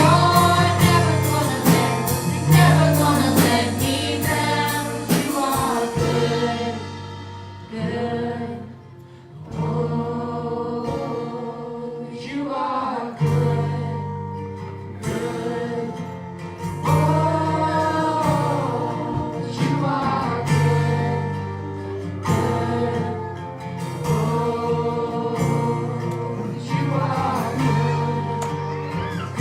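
Gospel worship song: a group of voices singing over a band with steady bass notes, and a drum beat that drops out about six seconds in.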